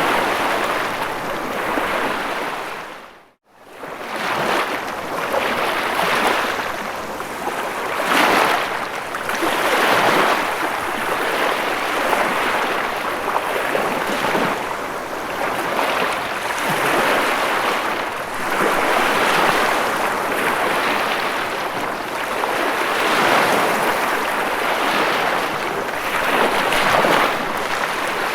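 Ocean waves washing on a shore, a continuous rush of surf swelling and easing every couple of seconds. About three seconds in, the sound fades briefly to silence and comes back.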